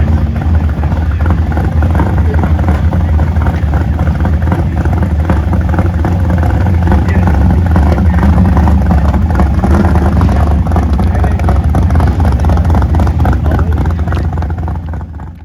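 Car engines running with a steady low rumble and people's voices mixed in, cutting off at the very end.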